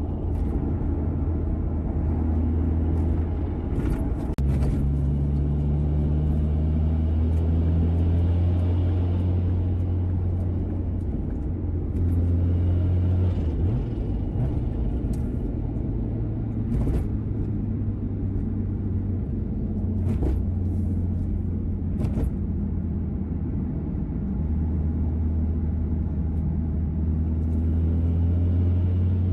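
Mazda RX-7 FD's twin-rotor 13B rotary engine, converted to a single TD06 turbo and breathing through a Dolphin muffler, running at a steady idle; its low idle note shifts pitch a few times. A few sharp clicks sound over it.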